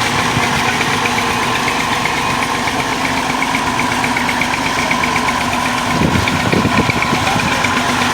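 Massey Ferguson 240 tractor's three-cylinder diesel engine running steadily, with a fast, even pulse. About six seconds in there is a brief spell of irregular low knocking.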